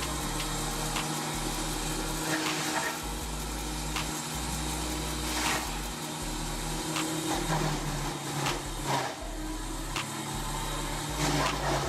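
Wood planer driven by a Ford 300 inline-six gasoline engine running steadily under load, with sharp cracks and knocks of wood being cut several times through.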